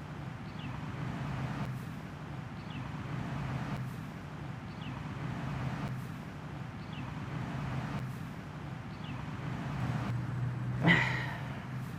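A steady low hum with a faint, short chirp repeating about once a second, then a single dog bark near the end.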